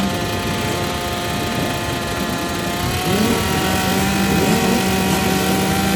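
Several dirt bike engines running together, with short revs rising and falling. A steadier engine note comes in about three seconds in.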